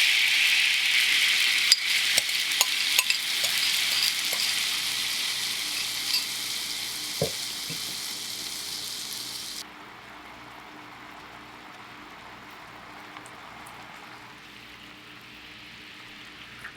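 Chicken thigh sizzling in a frying pan, with a few light utensil clicks in the first half. About ten seconds in, the loud sizzle drops abruptly to a quieter, steady sizzle.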